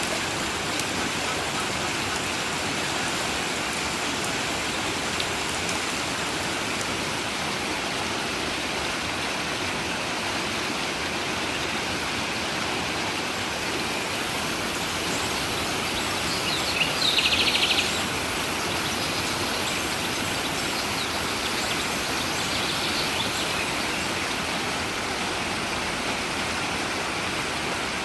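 Steady rushing of a flowing stream, with a bird trilling briefly just past the middle, the loudest moment.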